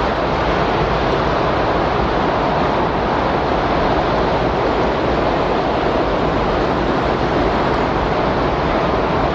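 Steady windstorm sound: a continuous, even rushing of wind with no gusts or breaks.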